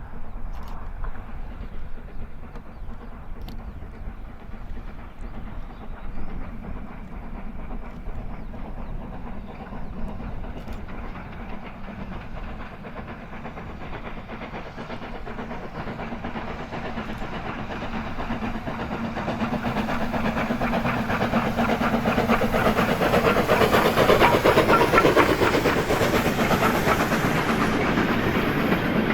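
Steam-hauled train approaching along the line, its running noise growing steadily louder through the second half and loudest near the end.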